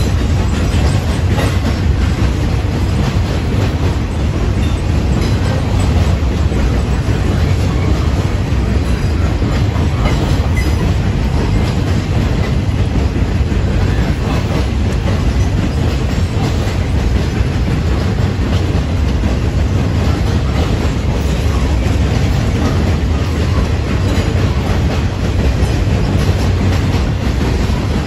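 Boxcars of a CSX manifest freight train rolling past: a steady, loud low rumble of steel wheels on the rails, with the clickety-clack of wheels passing over rail joints.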